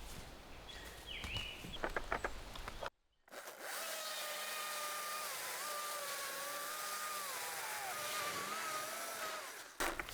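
A small power tool's motor running steadily for about six seconds, its pitch sagging twice as if under load. A few knocks come before it.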